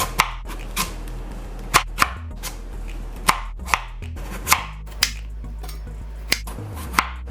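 A knife chopping food on a cutting board: sharp, irregular strokes about every half second.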